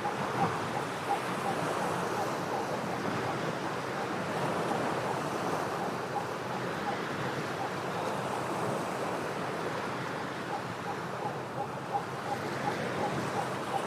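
Ocean waves washing steadily against shore rocks. A faint fast train of short repeated notes sounds around the start and again in the last few seconds.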